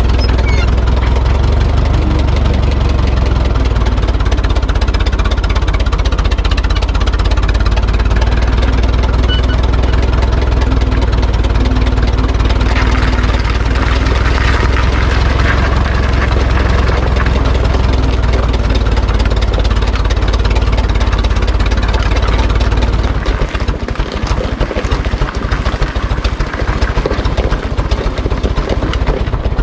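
Ferguson tractor engine idling steadily, a loud low drone. About three-quarters of the way through, the running becomes uneven.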